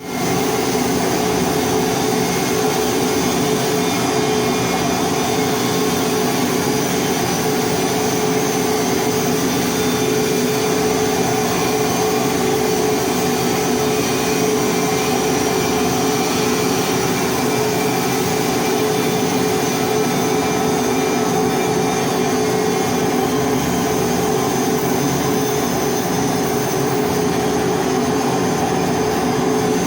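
Welding equipment for pipe hardfacing running steadily: an even mechanical drone with a few steady whining tones, unbroken throughout.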